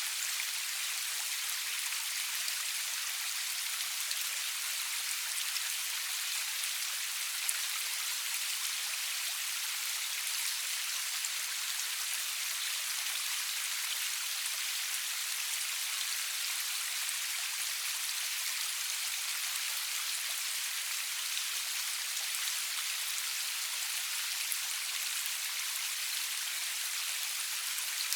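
Steady rain falling, an even hiss with the patter of individual drops, no thunder.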